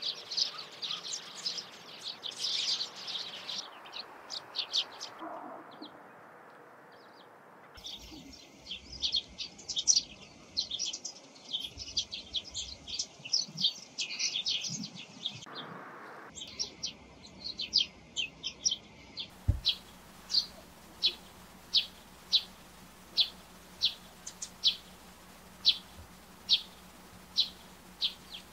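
Small wild songbirds calling: quick high chirps in busy clusters, then in the last third a steady run of single chirps, about one and a half a second.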